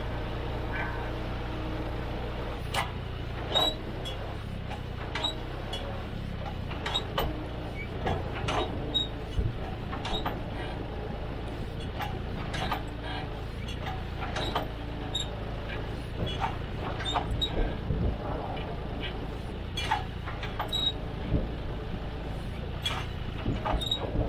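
John Deere 5310 diesel tractor engine running steadily under work, with many irregular sharp cracks and clanks over it.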